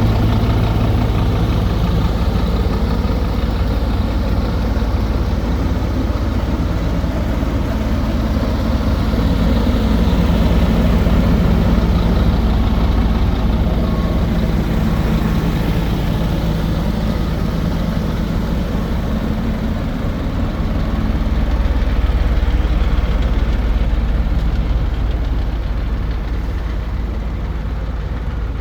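Scania P230 truck's five-cylinder diesel engine running steadily at idle.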